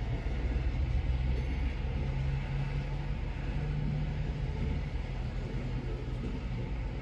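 Loaded coal train's cars rolling past: a steady low rumble of wheels on rail.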